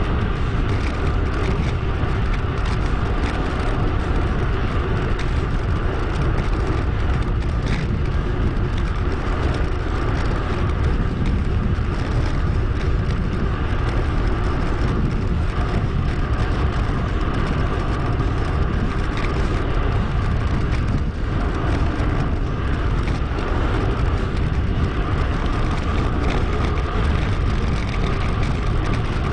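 Steady wind rush on an action camera's microphone during a bicycle ride, with tyre and road noise underneath, the audio sped up about two and a half times.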